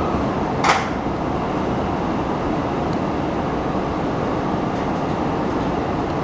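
Tokyo Metro Tozai Line train running, its steady rolling and running noise heard inside the passenger car. There is one short sharp noise about a second in.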